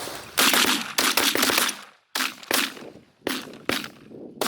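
A volley of shotgun fire from several hunters shooting at ducks: about eight shots in quick, irregular succession, the first few loudest, each with a short echoing tail.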